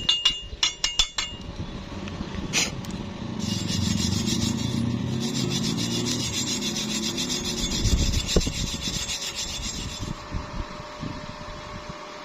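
Slag being cleaned off a stick weld on steel plate: rapid taps of a chipping hammer for about a second, then a wire brush scrubbing the bead in a steady rubbing scrape that fades near the end.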